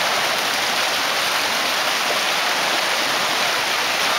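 River rapid rushing over rocks, a steady, even roar of white water.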